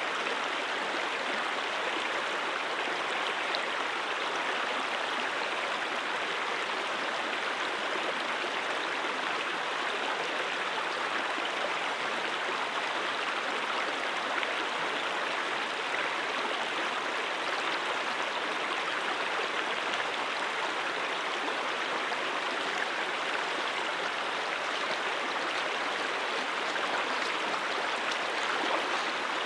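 Brook water flowing over rocks: a steady, even babbling rush with no break or change.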